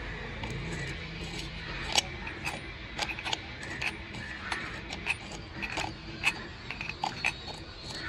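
Irregular sharp clicks and taps of small hard parts being handled, a few every second, with one louder click about two seconds in.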